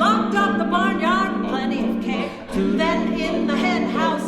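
A cappella vocal group singing: lower voices hold a steady low note while higher voices sing short sliding phrases above it. The low note breaks off briefly about halfway through.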